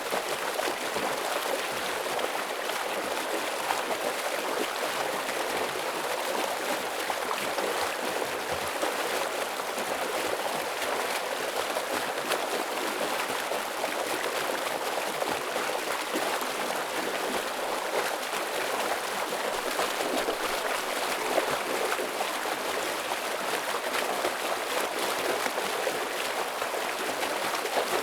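A stream running heavily: a steady, unbroken rush of flowing water, mostly hiss-like with little deep rumble.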